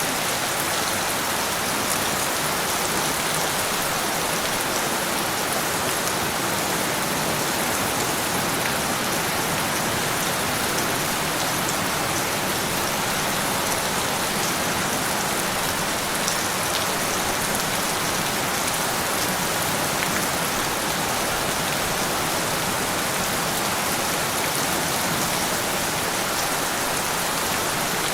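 Steady rain: a dense, even hiss of falling rain with scattered individual drops ticking on a surface.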